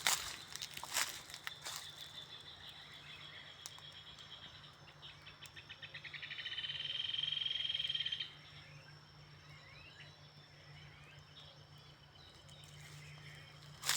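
A calling animal's rapid, high-pitched pulsed trill builds up about five seconds in, holds loud for a couple of seconds and cuts off suddenly, over a faint steady low hum with a few soft clicks near the start.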